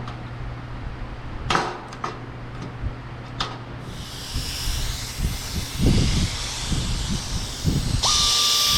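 Metal parts being handled with a few sharp clicks and knocks, then a hiss. About eight seconds in, a power tool starts up with a steady high whine and hiss, working on the car's old sheet-metal radiator support.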